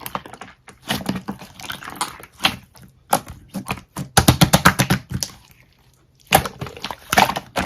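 Irregular sharp clicks and taps, with a fast run of rapid taps lasting about a second past the middle and a short pause before more clicks near the end.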